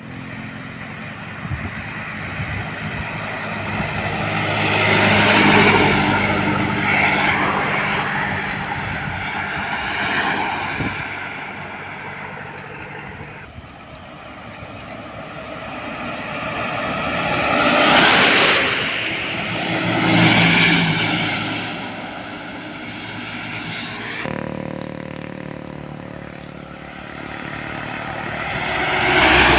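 Heavy trucks and buses driving past one after another, their diesel engines and tyres swelling up and fading away three times.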